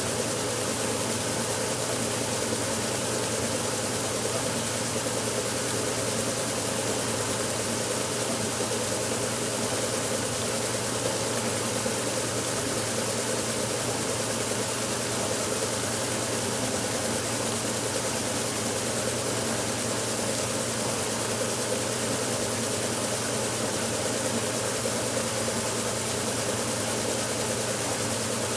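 1969 Westinghouse washing machine running steadily mid-cycle, with an even motor hum and a faint whoosh.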